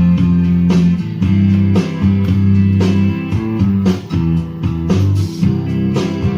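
Guitar strumming the chord intro of a song, with no singing yet.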